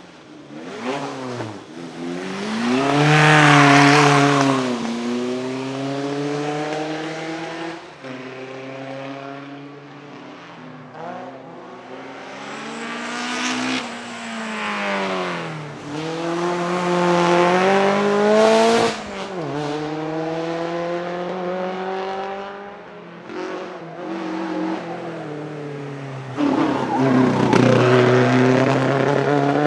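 Vintage racing car engines driven hard up a hillclimb: one car after another accelerating past, the engine note climbing in pitch and dropping back at each gear change, loudest as each car goes by.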